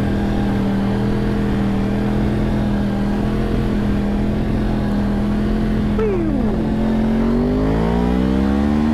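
A 2009 Yamaha XJ6 N's 600 cc inline-four engine running at a steady high engine speed while riding, then revving up, rising in pitch near the end as the bike accelerates. A short falling tone cuts across about six seconds in.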